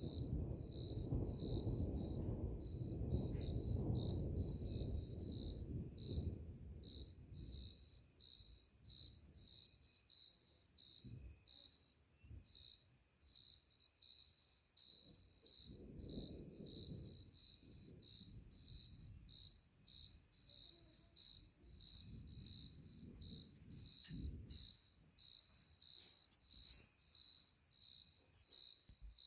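A cricket chirping steadily in a high, even rhythm, about two chirps a second. Under it, a low rumble of distant thunder fades out over the first several seconds, with fainter rumbles swelling up again later.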